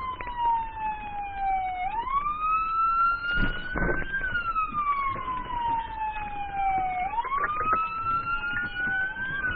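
Police car sirens wailing in a slow rise and fall, about five seconds per cycle, with a second siren out of step with the first. A brief knock sounds about three and a half seconds in.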